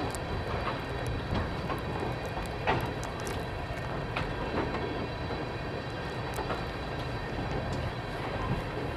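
Freight train cars rolling past at steady speed: a continuous rumble of wheels on rail, with occasional sharp clacks as wheels cross rail joints.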